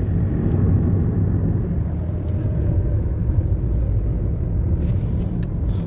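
Car driving along, a steady low rumble of engine and road noise, with a few faint clicks near the end.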